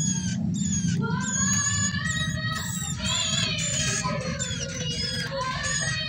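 Caged ciblek (bar-winged prinia) calling: many quick, high chirps that sweep downward, with longer, lower sliding tones in between, as the nestling begs with its beak open.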